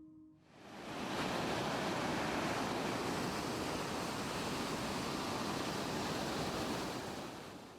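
Ocean surf breaking and washing on a beach, a steady rush of waves that fades in about half a second in and fades out near the end.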